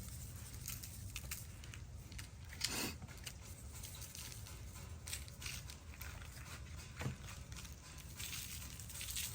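Beef rouladen searing in beef tallow in a cast iron pan: a faint crackling sizzle of scattered small pops over a low steady rumble, with a louder crackle about three seconds in and another near seven seconds.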